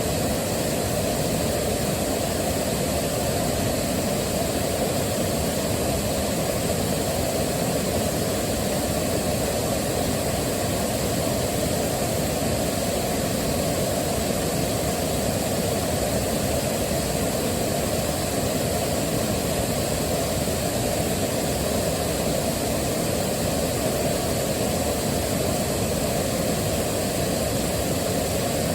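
A waterfall's rushing water as one steady, even rush, deepest in the low end and unchanging in level.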